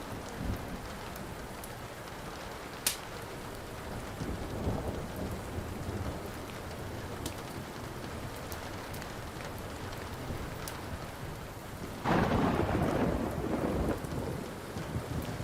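Steady rain with the sharp pops of a crackling wood fire, a low rumble of thunder about four seconds in, and a loud thunderclap that hits suddenly about twelve seconds in and rumbles for about two seconds.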